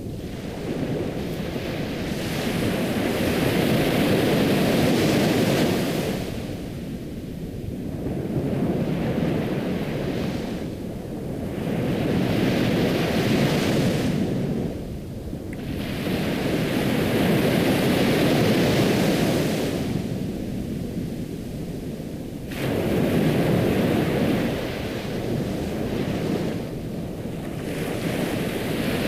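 Ocean waves breaking and washing up on a shore, each surge swelling and fading again every few seconds.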